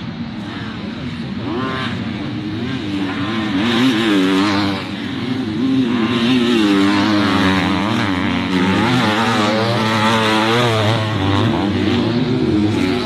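Motocross bike engines racing, revving hard with the pitch rising and falling as the riders work the throttle and shift. The engines get louder from about four seconds in.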